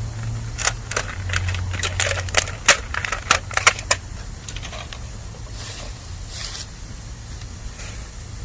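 Bamboo burning in a campfire: a quick run of sharp crackles and pops over the first few seconds, then a brief hiss of moisture boiling off from inside the bamboo about six seconds in, over a low steady rumble.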